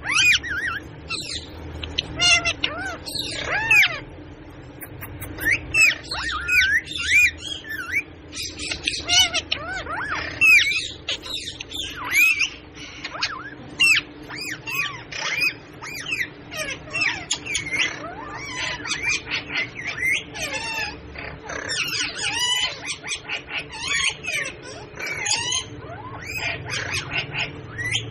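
Parrots calling almost without pause: quick squawks and whistles that swoop up and down in pitch, one after another.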